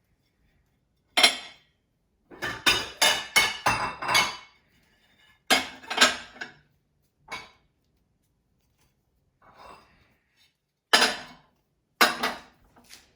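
Dishes and cutlery clinking and knocking as they are lifted out of a dishwasher and set down: single clinks, with a quick run of them a few seconds in.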